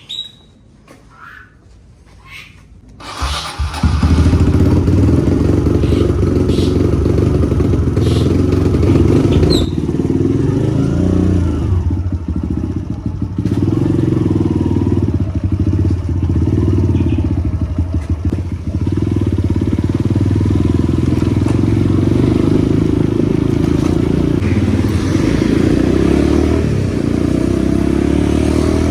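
A motorcycle engine comes in abruptly about three seconds in, after a few quiet clicks. It then runs loudly as the bike is ridden, its note rising and falling with the throttle.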